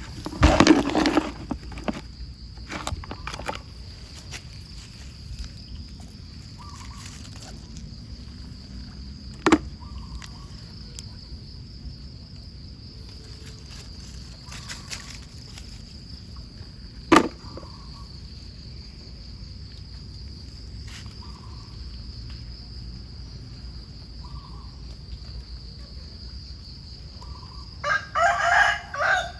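Outdoor ambience: a steady high insect drone, with a short call repeating about every two seconds. There are two sharp clicks, a loud burst at the start, and a loud bird call in several pulses near the end.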